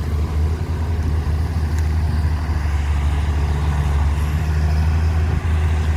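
John Deere log skidder's diesel engine running, a steady low drone with no change in pitch.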